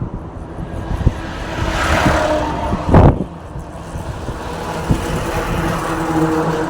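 Road traffic: a vehicle passes, its noise swelling and fading, with a sharp loud thump about three seconds in, then a steady engine hum from another vehicle.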